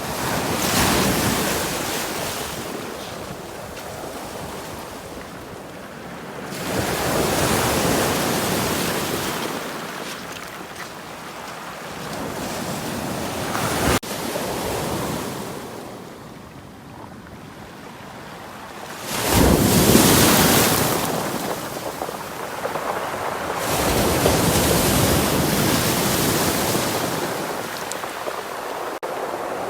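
Baltic Sea surf: rough waves rolling in and breaking, each one a loud rush that swells and fades, about every five to six seconds.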